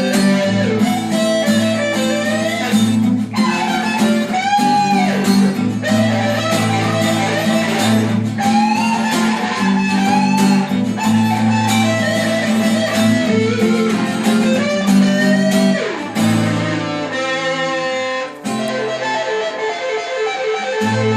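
Improvised lead guitar playing melodic phrases full of bent notes. Behind it runs a backing of steady held chords and bass notes.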